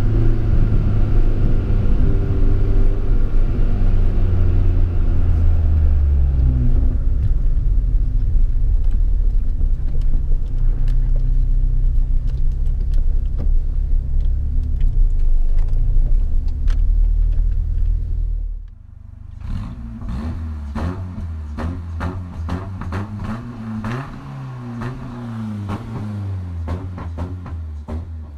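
BMW E30 318i's four-cylinder engine with a sports exhaust running under load, heard from inside the cabin, its pitch rising and falling with the throttle. About two-thirds of the way through it drops suddenly to a quieter engine sound that keeps rising and falling in pitch.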